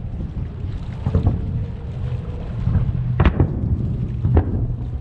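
Distant aerial firework shells bursting, several sharp bangs spread over a few seconds, the loudest a little past the middle, over a steady low rumble.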